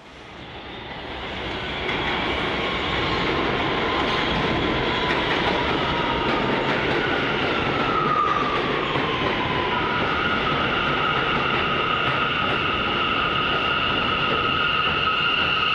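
R179 subway train running on the rails, growing louder over the first two seconds and then holding steady. Several high-pitched wheel-squeal tones ring over the rumble, one sliding down in pitch about halfway through.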